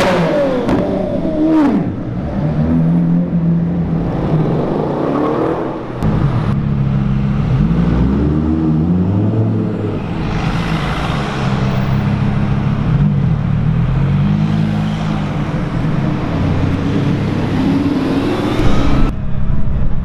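Sports car engines in street traffic idling and revving, the engine pitch rising and falling several times, with a louder rev or pass-by about halfway through.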